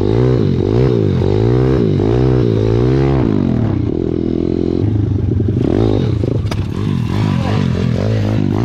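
Pit bike's single-cylinder four-stroke engine revving up and down over and over in quick surges, then holding a steadier pitch about halfway through, with rattling and scraping from the bike over rough ground.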